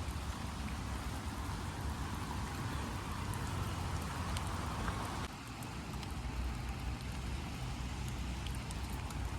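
Steady rain falling, with scattered ticks of individual drops over a low rumble.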